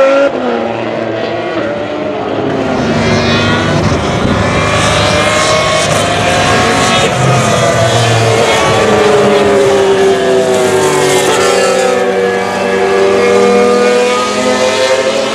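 Several GP3 single-seater race cars with 3.4-litre V6 engines running hard together, each engine's pitch sliding up and down as the cars go by and change revs.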